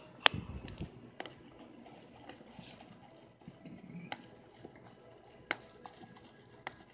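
Wet homemade slime being handled and squished, with scattered sharp clicks and taps, the loudest just after the start.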